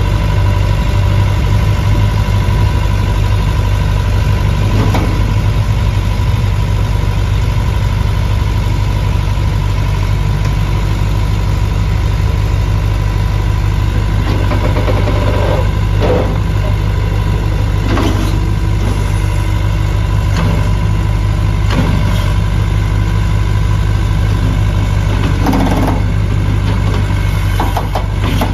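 Case 1845C skid steer loader's 60 hp Cummins diesel engine running steadily, with several short knocks over the second half.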